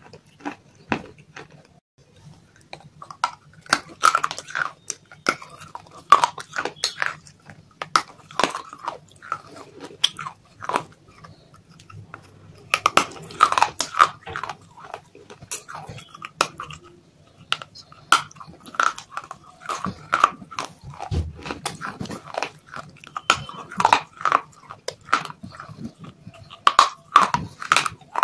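Close-miked crunching and chewing of dry baked clay, many sharp crisp crunches coming in bursts with short pauses between them.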